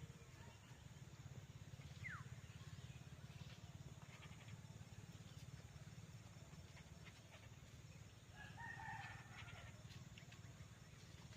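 Faint, near-silent farm ambience over a steady low hum, with a short falling chirp about two seconds in and a faint animal call lasting about a second near the end.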